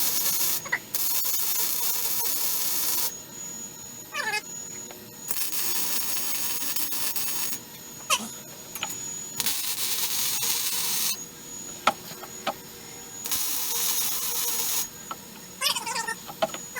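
Four bursts of steady hissing from shop work, each about two seconds long, with a cat meowing in the gaps between them.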